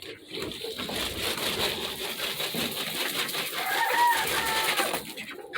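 Coop birds milling and flapping, with a busy rustle of wings, and one drawn-out bird call a little before the four-second mark.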